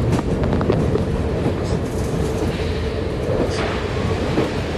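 Steady rumble of a moving train heard from inside a passenger carriage, with a few faint clicks.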